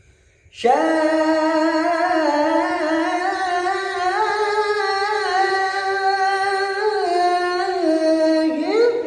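A single voice, unaccompanied, singing an Arabic devotional qasida. About half a second in it enters abruptly and holds one long, ornamented sung note that glides up and down in pitch.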